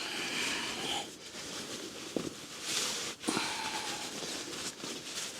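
Tent fabric rustling and swishing as it is crammed into a stuff sack, with a few soft knocks.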